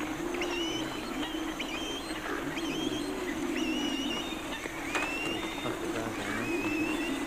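Birds calling: a steady low, wavering drone of calls with short rising whistles repeating about once a second above it.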